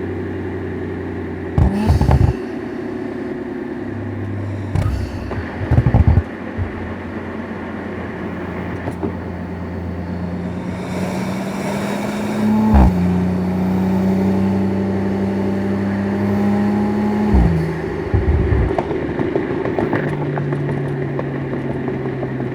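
Audi RS5's engine running under way, its pitch climbing slowly and then dropping suddenly at gear changes, with several brief louder spells.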